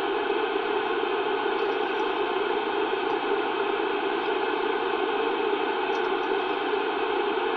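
CB radio receiver static: a steady, even hiss of open-channel noise with no station coming through.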